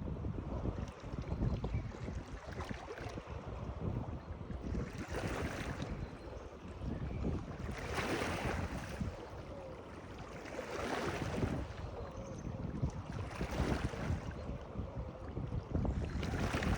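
Water washing in repeated hissing surges every two to three seconds, over a steady low rumble of wind buffeting the microphone.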